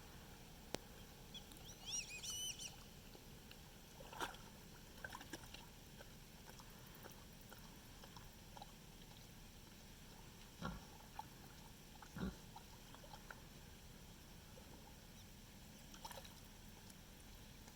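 A pig giving a few short, soft grunts now and then over near silence, with a brief high, warbling chirp about two seconds in.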